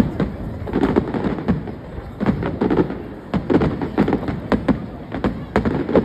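Fireworks going off in a fast, irregular barrage of bangs and crackles, several a second, over a continuous rumble of booms.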